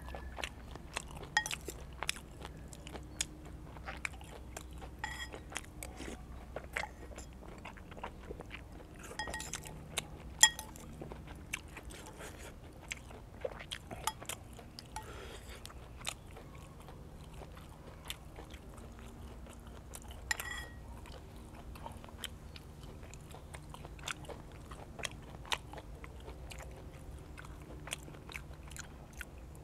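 A man chewing and crunching mouthfuls of raw beef and fresh vegetables dipped in sauce, with many short sharp crunches and clicks. The loudest crunch comes about ten seconds in.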